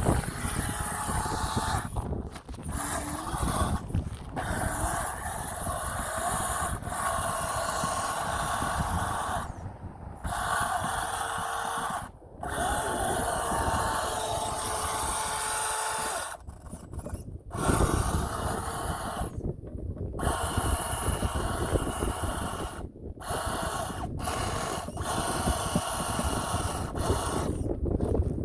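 Traxxas Slash VXL 4x4 RC truck's brushless motor and geared drivetrain whining under throttle, in long runs that cut out briefly about a dozen times as the throttle is let off.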